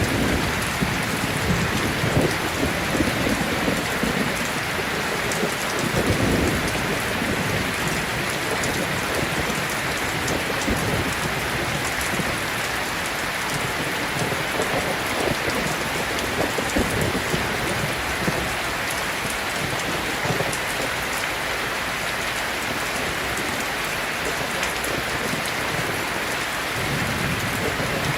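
Heavy rain falling in a steady hiss, with low rumbles of distant thunder swelling in the first few seconds and again around the middle.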